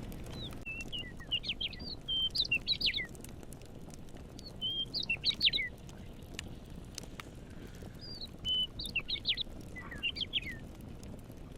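A songbird sings three short phrases of quick, sliding chirps, spaced a few seconds apart, over a low background with scattered soft fire crackles.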